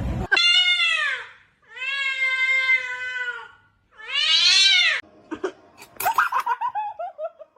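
A cat meowing three times in long, drawn-out calls, the last rising and then falling in pitch. Near the end come a few sharp clicks and a quick run of short calls stepping down in pitch.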